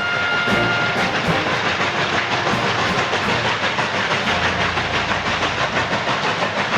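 Narrow-gauge steam train running: a steady hiss of steam with rail clatter and a faint regular pulsing.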